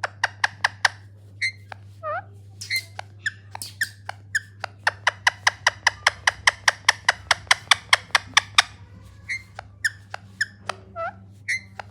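Parrot giving a long run of short, sharp squeaky calls, coming fastest near the middle at about five a second, over a steady low hum.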